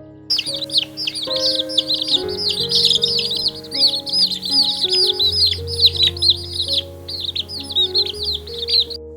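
Many birds chirping rapidly and continuously in a dense chorus of short, high, arching chirps. The chirping starts just after the beginning and stops abruptly near the end, with background music underneath.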